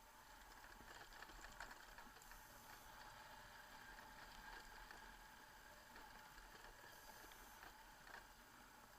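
Near silence: a faint, steady hiss with a few faint ticks.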